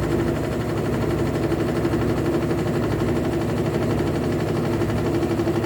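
Electrolux LT12F top-loading washing machine running with a steady droning hum and a strong steady tone with a fast flutter: the annoying noise the machine has developed.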